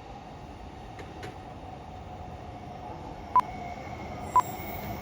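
A shinkansen train, the Joetsu Shinkansen Tanigawa, running toward the listener, a steady hum that slowly grows louder. Near the end, two short beeps about a second apart.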